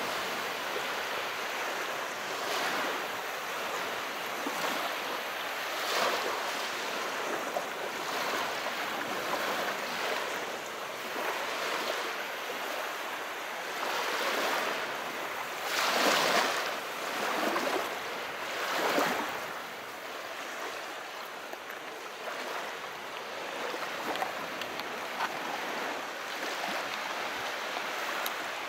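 Calm sea: small waves washing in, a steady hiss of surf with louder surges every few seconds, the biggest a little past the middle.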